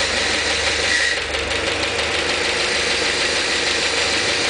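GAZ-69's engine idling steadily, driving its newly fitted hydraulic power-steering pump, with a brief high tone about a second in.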